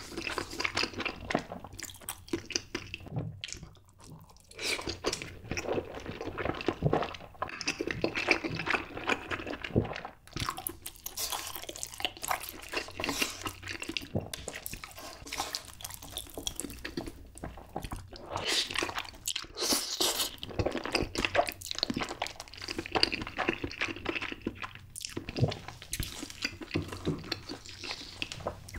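Close-miked eating sounds: wet, irregular chewing of Spam and spicy stir-fried noodles, with a couple of brief pauses.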